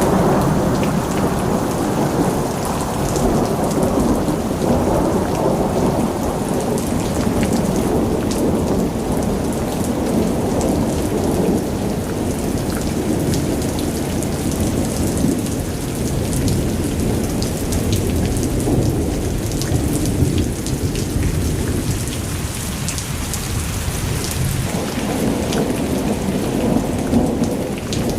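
Heavy rain pouring down steadily, a dense low roar with close raindrops ticking sharply on nearby surfaces.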